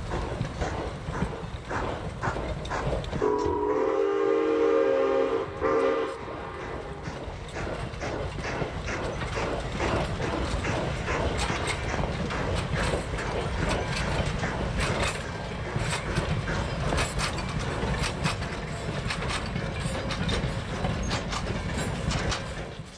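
A train running past with a steady rumble and quick clicking of wheels over rail joints. About three seconds in, the locomotive sounds one blast of several tones together, lasting about three seconds.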